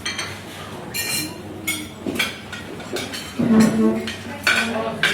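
Several light clinks of hard objects, ringing briefly, like dishes or cutlery knocking together. A short voice-like sound comes about three and a half seconds in.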